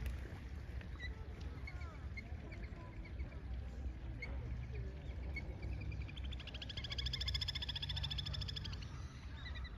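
Wild birds calling at a pond: a few short high chirps, then about six and a half seconds in a rapid high trill that lasts about two and a half seconds, over a low rumble.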